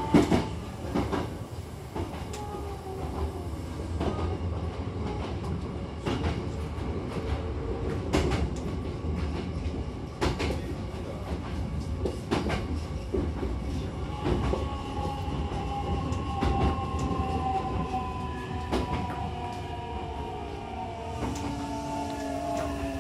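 Hankyu commuter train running, heard from inside the car by the doors: a steady rumble of wheels on the track with irregular clacks over rail joints. From about two-thirds of the way through, a thin whine slowly falls in pitch.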